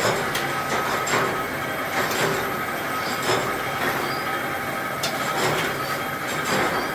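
Production-line machinery running steadily, with sharp metallic clacks recurring about once a second over a continuous mechanical din.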